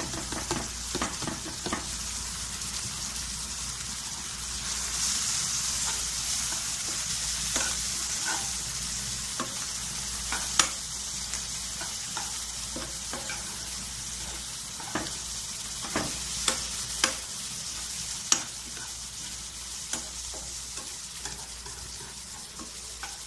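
Chopped onions, peppers and tomatoes sizzling in hot oil in a frying pan while a metal spoon stirs them. There are sharp clicks of the spoon against the pan now and then, most of them in the second half.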